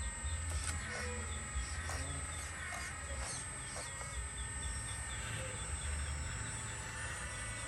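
Chickens clucking with short bird chirps scattered throughout, over a steady low rumble and a constant high-pitched tone.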